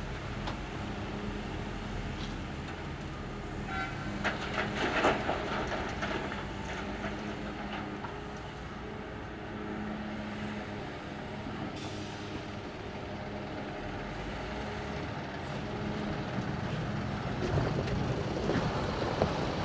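Heavy diesel engines of an excavator and dump trucks running steadily, with a burst of clattering knocks about four to five seconds in and the engine noise growing louder near the end.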